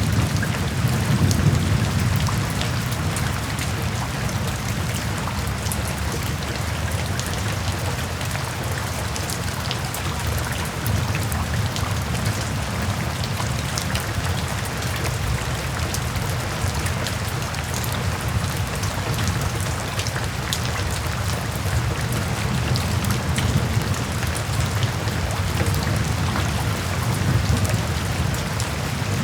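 Steady rain falling, with drops ticking on a surface. A low rumble of thunder sits underneath and eases off after the first couple of seconds.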